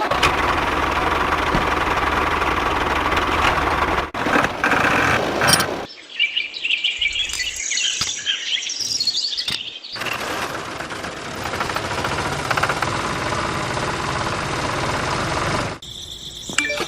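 Birds chirping for a few seconds midway, between two stretches of steady rushing noise.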